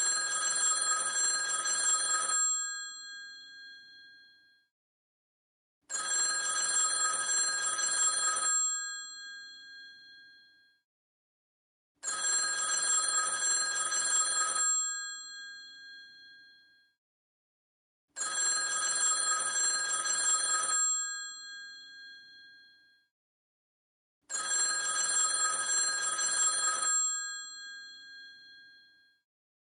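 Old rotary telephone's bell ringing: five rings of about two seconds each, one every six seconds, each trailing off into a fading ring.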